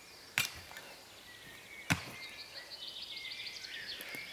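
Two hard blows of a Hultafors axe chopping into wood, about a second and a half apart, with birds chirping after the second.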